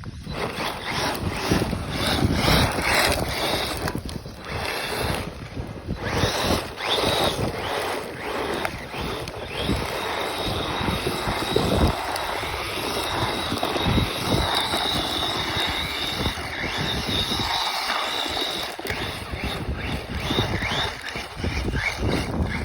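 An Arrma radio-controlled car spinning donuts. Its electric motor whines, rising and falling in pitch as the throttle is worked, over the rough hiss of its tyres sliding on the ground.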